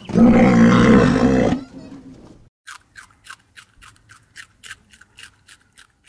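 A rhinoceros gives one loud, pitched call lasting about a second and a half. From about halfway through, a rabbit chews a carrot in short, crisp crunches, about three or four a second.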